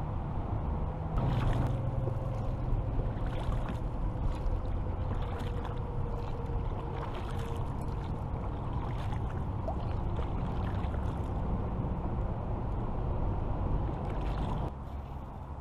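Kayak being paddled: water splashes and swishes at repeated, irregular paddle strokes over a steady low rumble.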